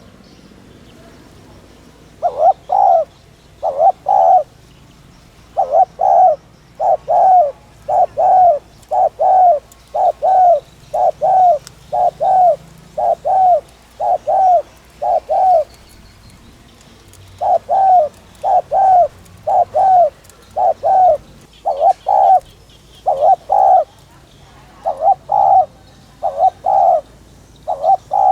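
Spotted dove cooing over and over in quick runs of short, hollow coos in twos and threes, with brief pauses about two seconds in and around sixteen seconds in. It is the urgent 'thúc gù' cooing that keepers play to rouse decoy doves.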